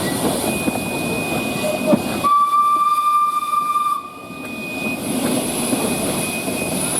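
Steam locomotive's whistle giving one steady blast of under two seconds, about two seconds in, among the noise of the working train.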